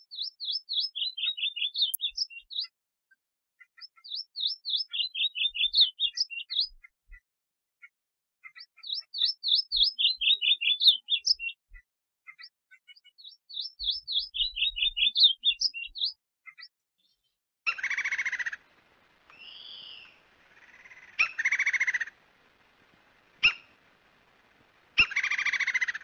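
Songbird singing: four phrases of rapid, high notes, each about three seconds long and falling in pitch, with short pauses between. About two-thirds in, a different bird call takes over, longer and fuller in sound, repeated four times with a short click between.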